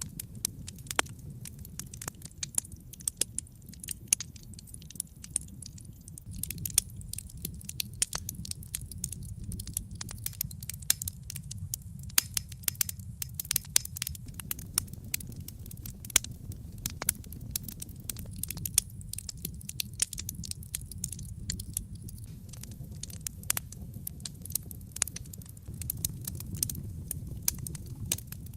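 Wood fire burning with a low steady rumble and dense, irregular crackling and popping of the logs.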